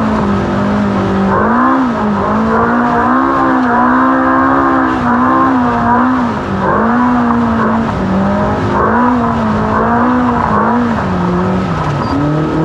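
Ultra4 race car's engine running hard, its revs rising and falling over and over, about once a second, as the throttle comes on and off.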